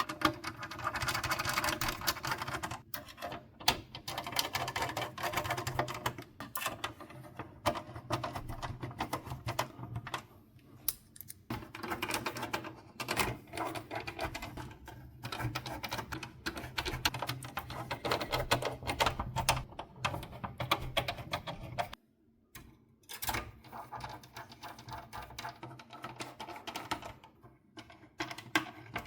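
Rapid, irregular clicking and rattling of small plastic and metal parts being worked on by hand, over a low steady hum. The sound cuts off abruptly about 22 seconds in, then the clicking resumes more sparsely.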